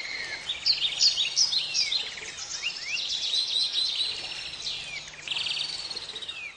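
Several birds chirping and calling, a busy mix of quick falling whistles and rapid trilled notes. A steady high whine stops about half a second in.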